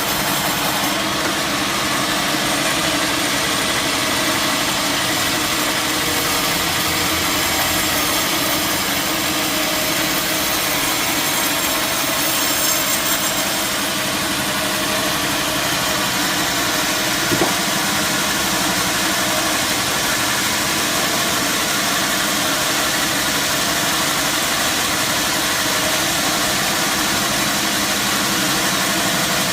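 Sawmill machinery running steadily: an engine hum under a constant high hiss, with one short knock about seventeen seconds in.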